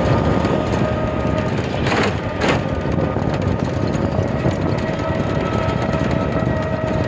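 Steady rumbling noise of a moving vehicle, with two sharp knocks about two seconds in.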